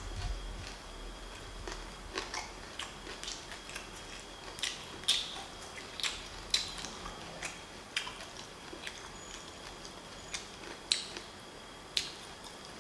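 A person chewing raw green onion close to the microphone: irregular short, sharp wet crunches and mouth clicks, spaced unevenly a fraction of a second to a second apart.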